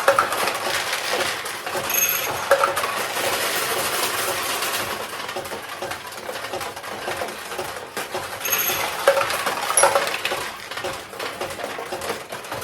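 Steel balls clattering and rattling through a vintage Nishijin Model A pachinko machine, pinging off the pins and pouring into the tray. Short bright metallic rings come twice, about two seconds in and near the end.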